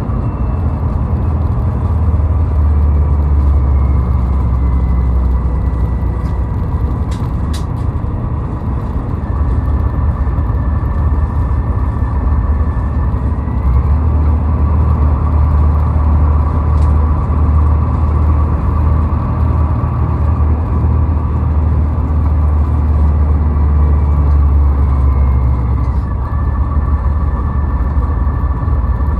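Car driving at highway speed: a steady low rumble of road and engine noise. A faint high whine sits above it and shifts in pitch a few times.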